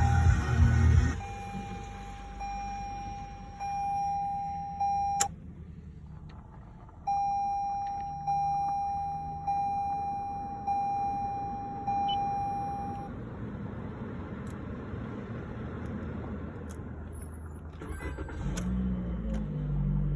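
2020 Toyota Corolla LE's 1.8-litre four-cylinder engine starting with a short, loud crank, then idling steadily. A dashboard warning chime pings at about one ping a second over the idle, stops briefly, resumes, and falls silent about thirteen seconds in.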